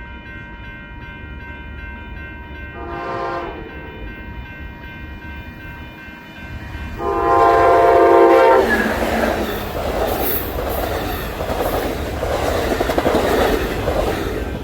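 Train horn sounding a short blast about three seconds in and a longer, louder one about seven seconds in, then the train passing close by with its wheels clattering over the rails.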